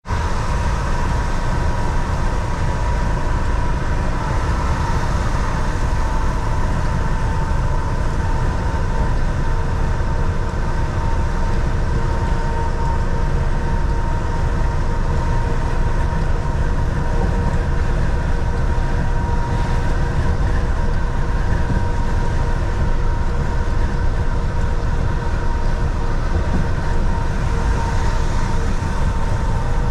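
Volvo VNL 760 semi truck heard from inside the cab on the move: steady engine drone and road rumble, with a faint steady whine over it.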